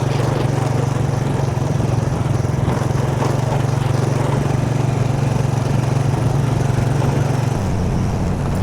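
A vehicle's engine running steadily while driving along a rough road. Its note changes about seven and a half seconds in.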